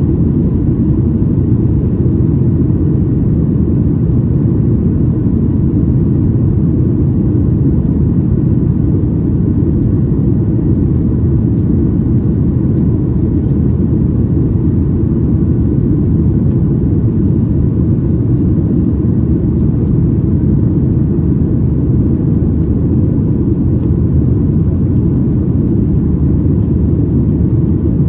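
Steady, loud cabin rumble of a Boeing 737-900ER under power, the drone of its CFM56 jet engines and airflow heard from a window seat in the aft cabin, unchanging throughout.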